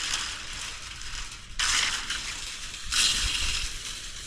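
Gravel crunching in repeated short bursts, about one a second.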